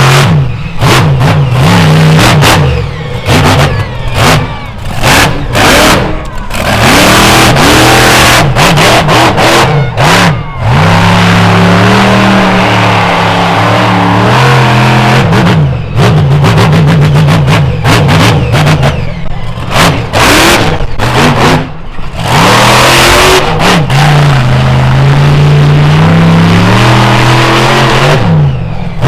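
Monster truck engine revving hard, its throttle opened and closed again and again. The pitch rises and falls, with many short drops in between.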